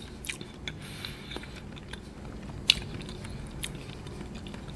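Close-miked mouth sounds of someone chewing a soft agar-agar jelly: scattered small wet clicks, with one sharper click about two and a half seconds in.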